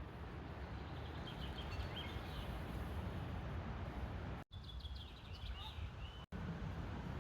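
Small birds chirping over a steady low rumble of outdoor background noise. The chirps come in two bunches, and the sound cuts out abruptly twice.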